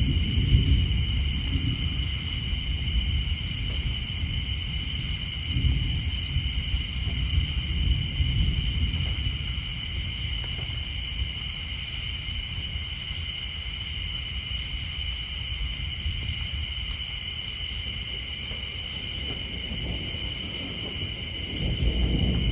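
A night chorus of insects and tree frogs: steady high trilling, with a still higher trill that switches on and off every second or so. Under it, low distant thunder rumbles, swelling near the start, a few times in the first half, and again near the end.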